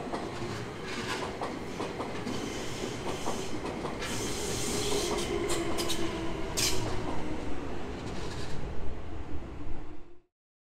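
Keio Inokashira Line 1000 series electric train running on the track and growing louder, its wheels clacking over rail joints. The sound cuts off abruptly about ten seconds in.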